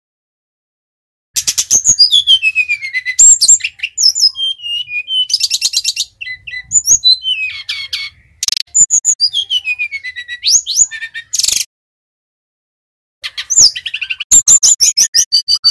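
Sikatan rimba dada coklat (brown-chested jungle flycatcher) singing: fast runs of sharp chirps mixed with long sliding whistles, in two bursts with a pause of about a second and a half between them. This is song played as a lure to get the same species to sing.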